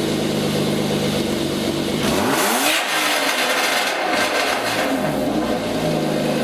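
BMW E34 525i's inline-six running loud through a muffler held loosely over the exhaust outlet, idling and then revved up about two seconds in and again near the end.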